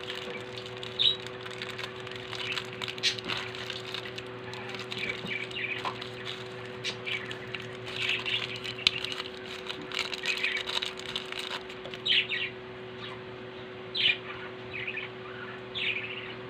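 Small birds chirping over and over, short high calls scattered throughout, over a steady low hum. A few light clicks and taps are mixed in.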